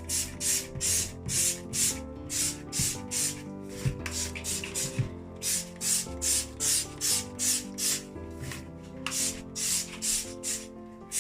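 Scrubbing strokes on a kitchen sink, back and forth about two to three times a second with a couple of brief pauses, over background music.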